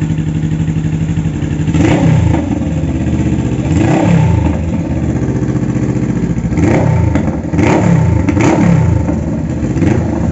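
Honda CB500F parallel-twin motorcycle engine idling through its exhaust, then blipped several times in quick revs that rise and fall back to idle.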